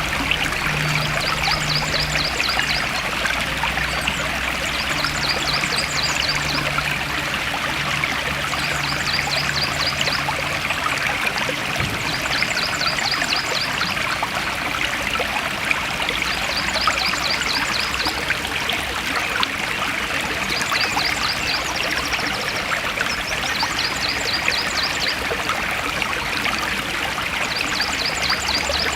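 Forest stream running steadily, a continuous rushing and trickling of water. A high, rapid trill repeats about every two seconds over it, and a low steady hum stops about eleven seconds in.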